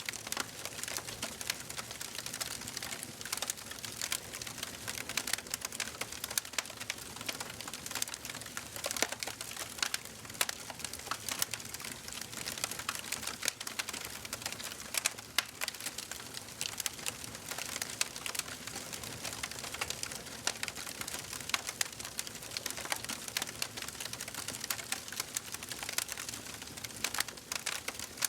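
Wood fire burning in a fireplace: a dense, irregular crackle of small pops and snaps over a steady hiss.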